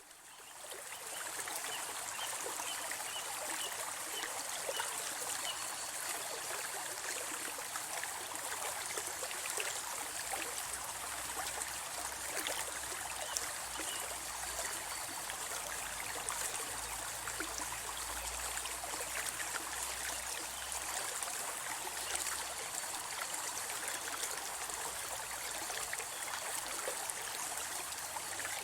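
Babbling brook: shallow water trickling and gurgling steadily over stones, fading in over the first second or two.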